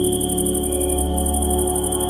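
Ambient music of steady held tones over a low drone, with a fast, even cricket trill high above it that breaks off briefly about a second in.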